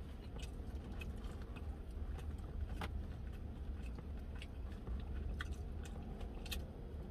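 A person chewing a mouthful of fried chicken sandwich close to the microphone, with scattered small mouth clicks, over a steady low rumble.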